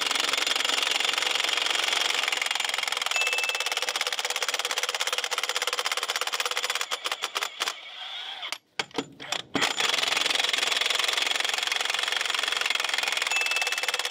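Milwaukee M18 FUEL 1-inch D-handle cordless impact wrench hammering, breaking loose rusted Budd nuts on semi-truck wheels. A long run of rapid hammering, a few short bursts with pauses about halfway through, then another long run.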